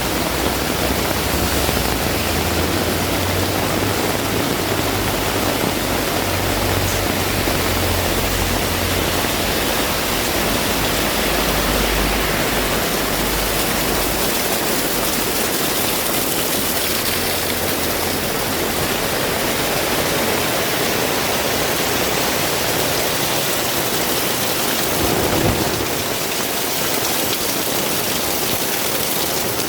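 Heavy rain falling steadily, a dense even hiss, with a low rumble under it through about the first half. A brief louder thump comes near the end.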